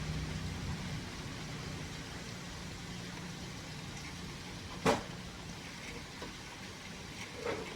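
A passing motor vehicle's engine hum fading away, with one sharp click about five seconds in and a couple of faint knocks near the end.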